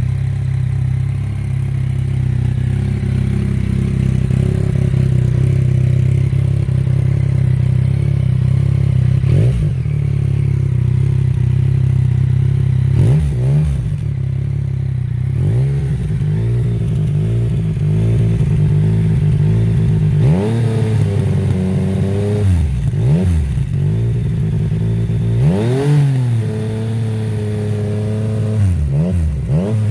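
Yamaha XSR900's three-cylinder engine through an aftermarket GPR exhaust, idling steadily, then revved in a string of quick throttle blips from about a third of the way in, each rising and falling in pitch before it settles back to idle.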